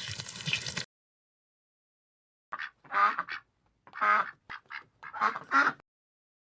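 Duck quacking: a run of short, loud quacks that starts about two and a half seconds in and stops near the end, after a second or two of silence.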